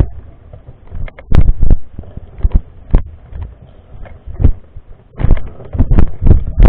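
Mountain bike jolting over a rough trail: irregular heavy thumps and knocks with rattling clicks between them. The thumps come hardest about a second in and through the last second and a half.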